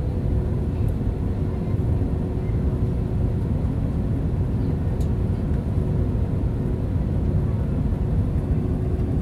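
Steady cabin noise inside an Airbus A320-233: a low rumble from its two IAE V2527E-A5 engines and the air, with a faint steady hum over it.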